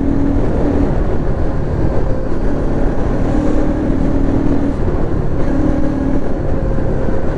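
Bajaj Pulsar NS200's stock single-cylinder engine running while riding, mixed with wind rushing over the microphone, with a faint steady hum that comes and goes.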